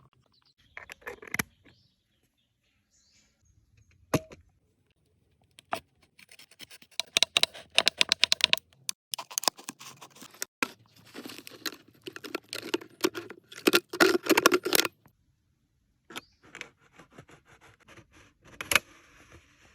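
Rapid scraping and clicking in several bursts, the longest and loudest running for several seconds in the middle, with a few sharp single clicks before and after.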